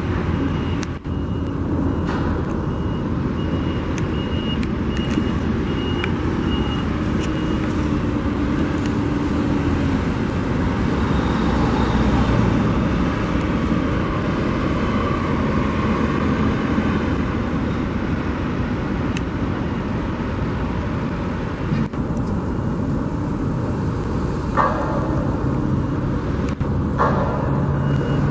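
Heavy trucks and construction vehicles running steadily at a building site. A faint repeated high beep, like a reversing alarm, sounds during the first several seconds, and there are a few short clatters near the end.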